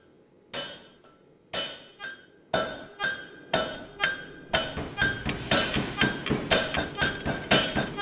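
Hammer striking an anvil, each blow ringing on. The blows come about once a second at first, about two a second from midway, and faster and denser in the last few seconds.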